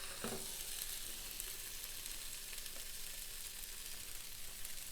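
Chicken breasts sizzling on the hot plates of a George Foreman contact grill: a faint, steady crackling hiss.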